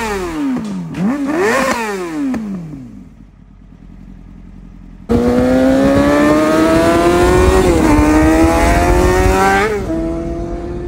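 Full-bolt-on Yamaha R6's inline-four engine revved in quick sharp blips, then dying away. About five seconds in, it cuts in loud and pulls hard under acceleration, pitch climbing with two brief dips at upshifts, then holding steadier near the end.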